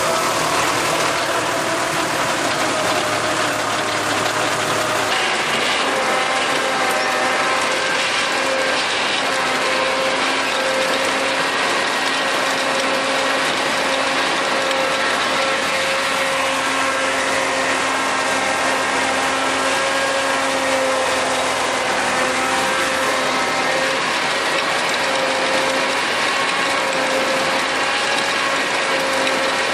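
Tractor running steadily while driving a rotary tiller, a continuous mechanical sound with a steady hum-like tone running through it.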